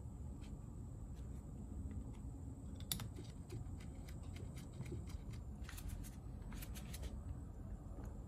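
Light, scattered metal clicks and handling noises as screws are fitted back into a car starter's solenoid, with one sharper click about three seconds in.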